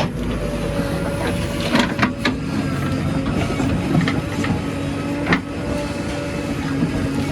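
Heavy machine's diesel engine running steadily, with a few sharp knocks or clanks over it.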